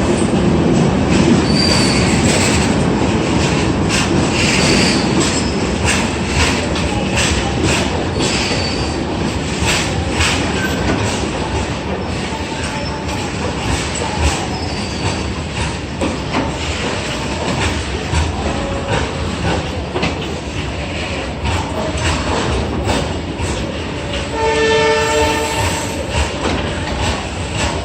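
Hatia Express, a passenger train of LHB coaches, rolling past with a steady rumble that slowly fades, its wheels clicking over rail joints and giving a few brief high squeals. About 25 seconds in, a train horn sounds once for about a second and a half.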